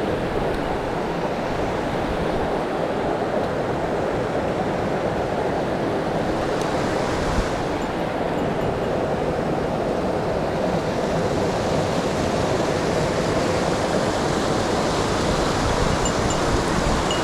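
Mountain stream rushing steadily over rocks: a constant noise of running water, a little brighter in the second half.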